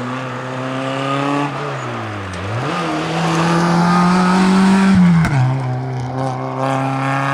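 Rally car engine worked hard: the revs climb, fall away about two seconds in as the driver lifts, then rise steeply under full throttle to a quick upshift about five seconds in, and climb again.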